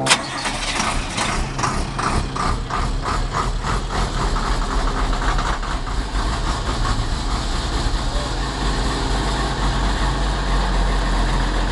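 Cold start of a 1990 school bus's International DTA360 turbo-diesel after sitting overnight near freezing. A sharp click, then the engine fires right up and runs with an uneven, evenly pulsing beat for the first five or six seconds before settling into a steady idle.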